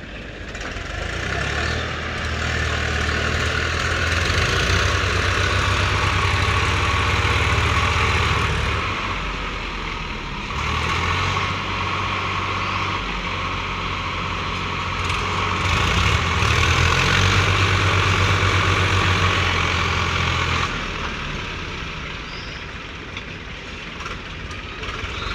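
Heavy diesel engine running, building up to a louder, harder-working pitch twice for several seconds at a time before easing back.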